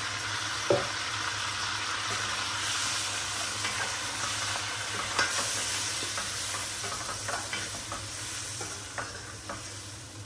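Chicken and a freshly added onion-tomato-garlic paste sizzling in oil in a stainless steel kadai while being stirred with a long metal spoon. The spoon knocks loudly on the pan about a second in and clicks against it a few more times later, and the sizzle eases toward the end.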